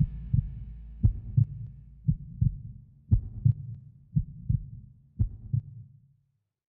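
Heartbeat sound effect: low double 'lub-dub' thumps about once a second, six beats in all, then it stops.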